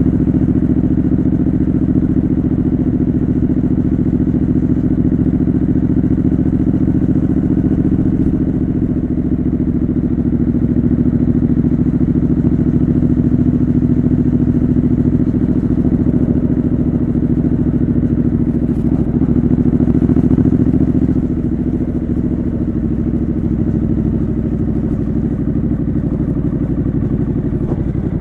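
Triumph Scrambler 900's parallel-twin engine running steadily through a homemade exhaust while riding at a constant pace, with wind noise on the microphone. The engine note drops a little about three-quarters of the way through.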